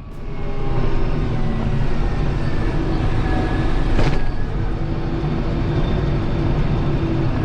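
Kubota M7060 tractor's four-cylinder diesel running steadily while working, its sound building over the first second, with one short clunk about four seconds in.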